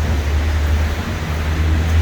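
City road traffic: a steady low rumble of passing vehicles.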